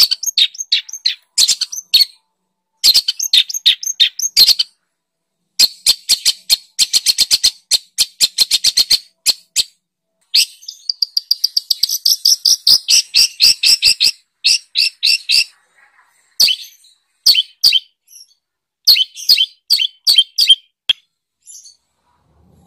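Songbird masteran recording: rapid series of sharp, high chirps and fast trills, delivered in phrases a few seconds long with short silent gaps between them.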